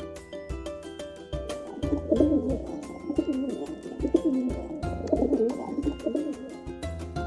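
Pigeon cooing in two bouts of low, throaty coos, about two seconds in and again about five seconds in, over upbeat background music.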